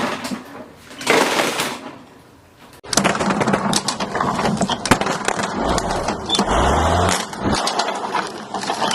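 Lawn mower running with dense, rapid clattering and crackling, which starts abruptly about three seconds in. A low engine note rises in pitch briefly near the middle.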